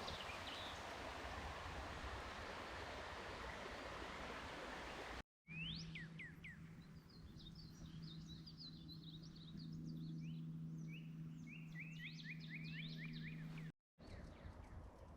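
Water rushing in a stream, an even steady noise that stops abruptly about five seconds in. Then small birds chirping in quick runs of short, high, falling notes over a steady low hum.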